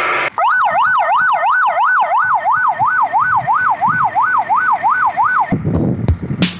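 Vehicle electronic siren sounding a fast up-and-down wail, about three sweeps a second, cutting off near the end, where music with a beat comes in.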